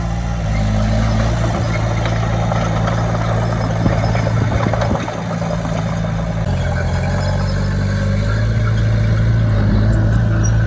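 Heavy diesel engine of earthmoving machinery running steadily, its pitch shifting a few times, with a few short knocks about halfway through.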